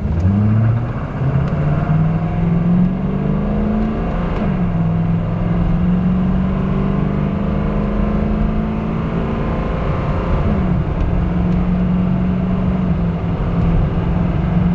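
A 1995 Chevy 1500's 6.5-litre turbo diesel V8 accelerates at full throttle. The engine pitch climbs steadily and drops back at each upshift of the 4L80E automatic transmission, most clearly about four and ten seconds in.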